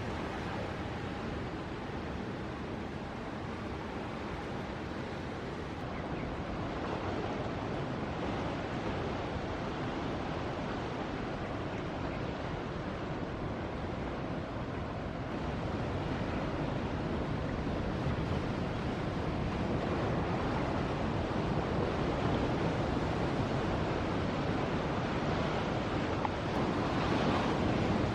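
Ocean surf: a steady rush of breaking waves that slowly builds and swells near the end, with wind buffeting the microphone.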